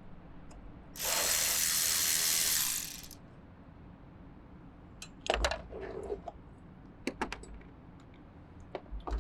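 M12 cordless electric ratchet with a deep socket and extension spinning off the battery hold-down nut for about two seconds, starting about a second in. A few seconds later come several short metallic clinks and clanks as the loosened hold-down hardware is handled.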